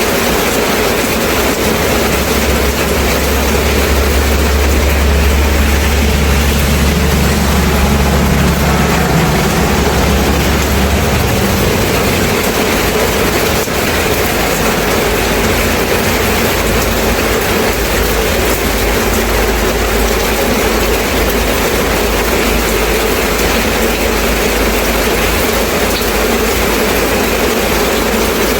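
Steady heavy rain hissing without a break. Under it, a low engine-like rumble swells for the first ten seconds or so, then settles to a fainter low hum.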